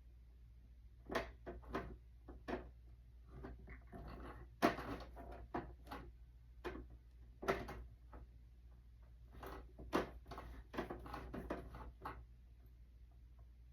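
Irregular clicks and knocks of small objects being handled, scattered from about one second in until near the end, over a faint steady low hum.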